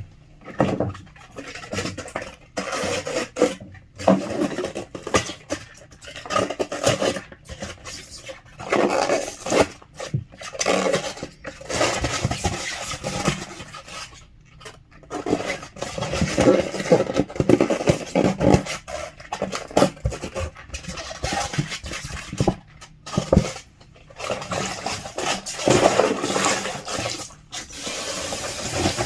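Aseptic paper drink cartons being handled and scrubbed during washing, rubbing and scraping in irregular bursts. Water starts running steadily near the end.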